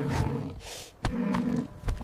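Animal calls: two loud stretches of pitched cries and grunts, broken by a short gap about a second in.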